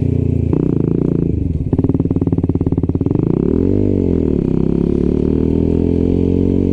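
125cc motorcycle engine running under way, pulsing at low revs about two seconds in, then rising and falling in pitch once near the middle before holding a steady note.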